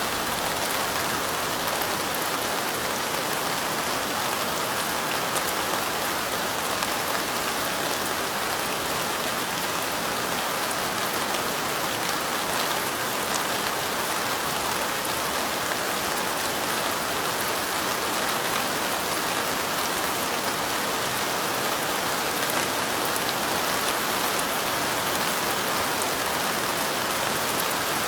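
Steady light rain falling on a surface: a dense, even hiss with fine ticks of single drops, unchanging throughout.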